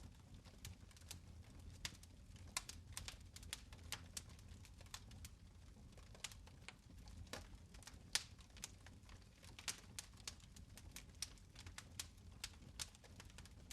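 Quiet fireplace fire crackling: scattered sharp pops and ticks at an irregular pace over a low steady rumble.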